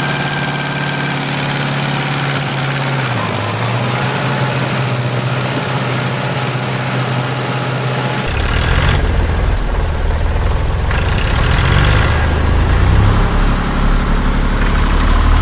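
Engine idling with a steady hum, switching abruptly about eight seconds in to a louder, deeper-running engine.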